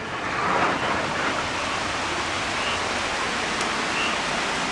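Heavy rain pouring down, a steady even hiss of a downpour that swells in the first half second and then holds level.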